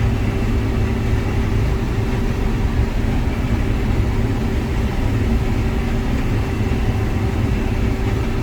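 Combine harvester running while harvesting corn, heard from inside the cab: a steady low drone of engine and threshing machinery with a few steady humming tones over it.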